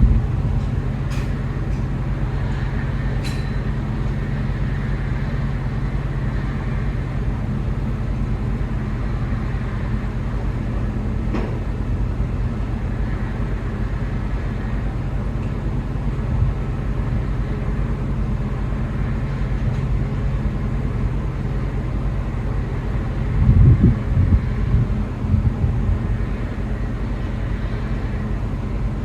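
Steady low drone of the ferry Orange Shikoku's machinery running while berthed, with a few sharp clicks and a brief louder low rumble about 24 seconds in.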